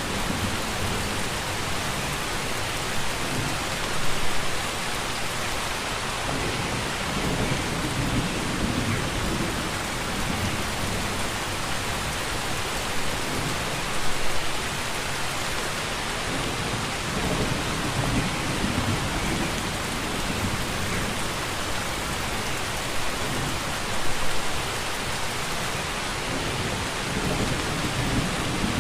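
Steady heavy rain falling as an even hiss, with a low rumble underneath that swells and fades. There are three brief louder swells about ten seconds apart.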